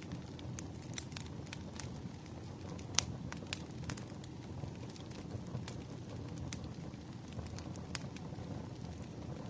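Wood fire burning, a steady low rumble with irregular sharp crackles and pops, the loudest pop about three seconds in.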